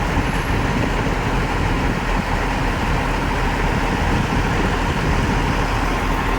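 Fire engine running, a steady low rumble of engine and road noise.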